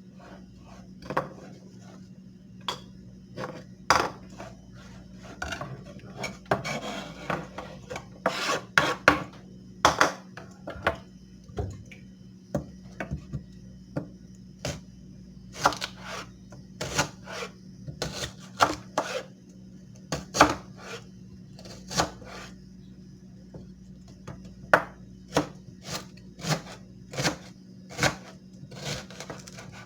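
Knife blade being sharpened: irregular scraping strokes and sharp metal clicks against the sharpening surface, with a run of longer rasping strokes near the middle. A steady low hum underneath.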